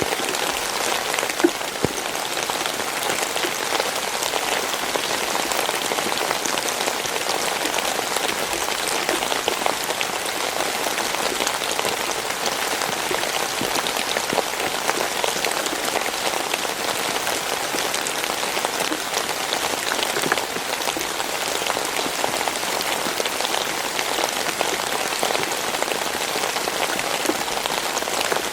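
Steady rain falling, a dense hiss of drops with many fine individual drop ticks hitting a surface.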